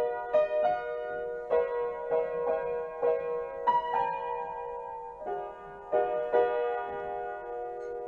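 Background piano music, a run of separate struck notes with chords held under them, fading out near the end.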